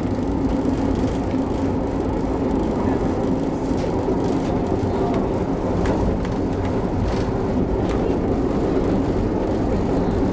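Vintage passenger train running on the rails, heard from inside the carriage: a steady low rumble of wheels and track, with a few faint clicks in the middle.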